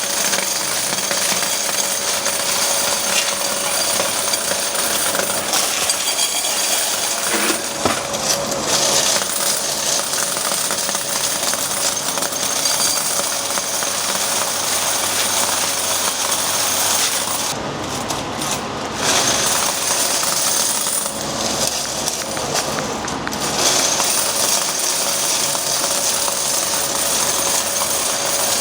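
Coin counting machine running with quarters clattering through it in a continuous rapid rattle over a steady motor hum.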